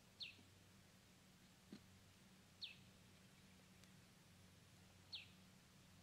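A bird chirping three times, each chirp short and falling in pitch, about two and a half seconds apart, with a faint click between the first two, over a faint low hum.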